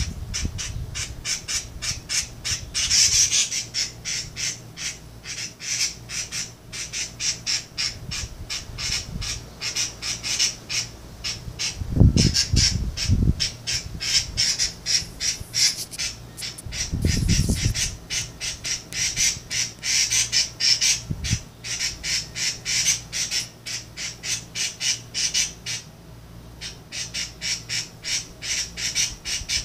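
Birds chirping steadily in a quick run of short, sharp chirps, about three a second. A few low thumps come partway through.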